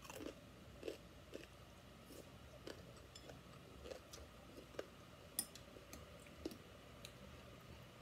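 Faint close-up chewing of a mouthful of crispy lechon kawali (deep-fried pork belly) with rice: scattered small crunches and clicks, the sharpest about five and a half seconds in.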